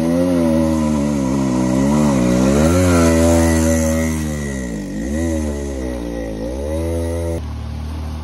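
Motorcycle engine running under throttle, its revs rising and falling several times with a deep drop about five seconds in; the sound changes abruptly near the end.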